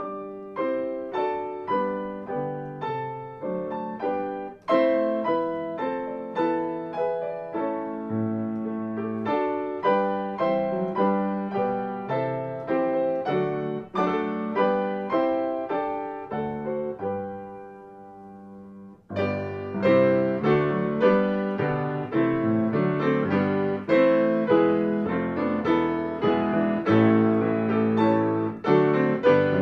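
Piano playing a hymn tune in full chords, each note struck and fading. About seventeen seconds in a held chord dies away, and about two seconds later the playing starts again, louder.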